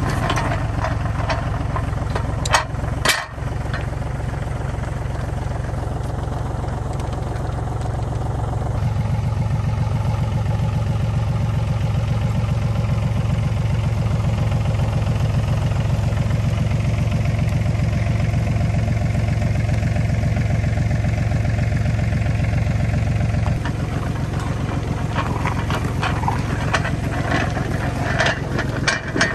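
Tractor engine running steadily, with a few sharp knocks about three seconds in and shifts in the engine note about a third of the way through and again near the end.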